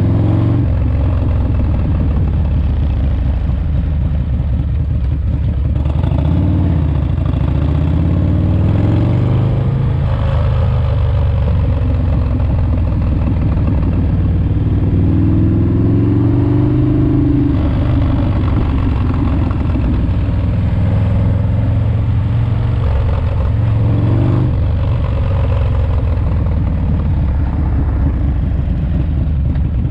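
Rebuilt S&S 107ci V-twin engine of a Harley-Davidson FXRT running on the road during its first break-in miles. Its speed rises and falls several times with throttle and gear changes.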